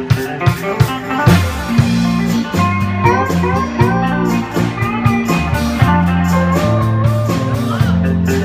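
Live band playing an instrumental break: a lead guitar solo with bending notes over bass and a steady drum beat.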